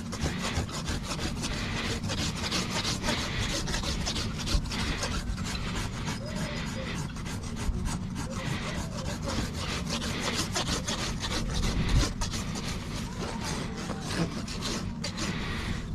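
Farrier's rasp filing a horse's hoof wall in quick, repeated rough strokes, over a low steady hum.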